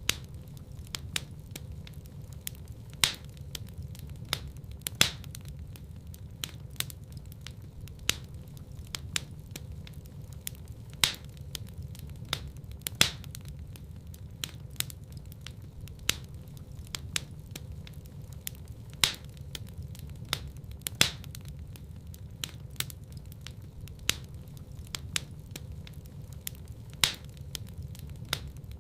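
Wood fire in a fireplace crackling, with frequent small snaps and a louder pop every couple of seconds over a low, steady rumble of the burning.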